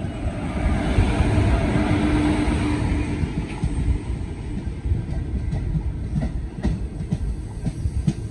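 Indian Railways express train passing close by on the next track: its electric locomotive goes by with a steady hum over the rumble in the first few seconds. Then the coaches rush past with their wheels clattering over the rail joints.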